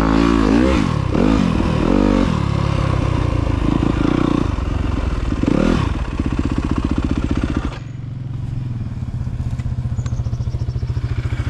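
Motorcycle engine revving up and down as the bike slows, then dropping to a steady low idle about two-thirds of the way through as the rider pulls over.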